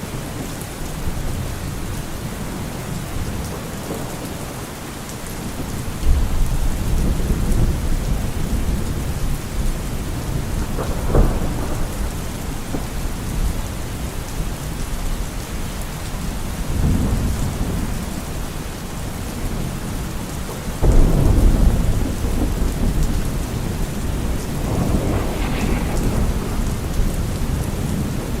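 Steady heavy rain with rolling thunder. Loud low rumbles break in suddenly about six seconds in and again about twenty-one seconds in, with a sharper crack of thunder in between.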